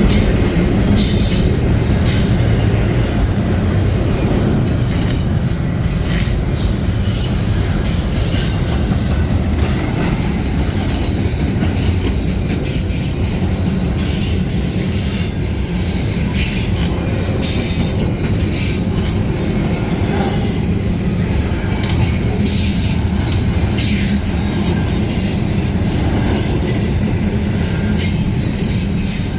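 Intermodal freight train's cars rolling past with a steady rumble of steel wheels on rail. Short high-pitched wheel squeals and sharp clicks come and go throughout.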